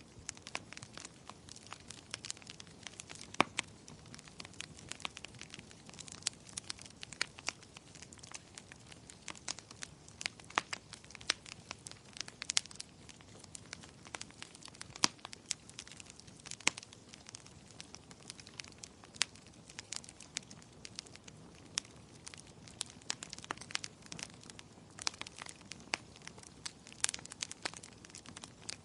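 Wood fire in a fireplace crackling: frequent irregular sharp pops and snaps over a soft steady hiss.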